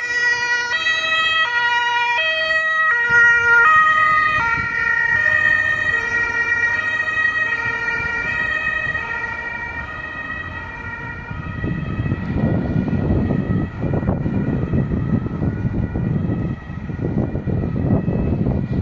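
Emergency vehicle's two-tone siren, switching between two pitches about every three-quarters of a second, fading away over the first ten seconds. Then road traffic rumble rises from about twelve seconds in.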